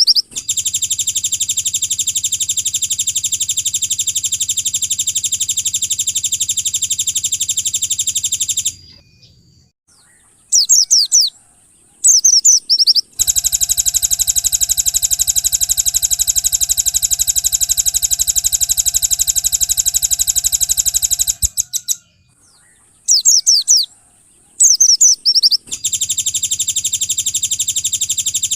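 Recorded songbird calls from a white-eye training track. Long, rapid buzzing trills about eight seconds each alternate with short bursts of quick sweeping chirps.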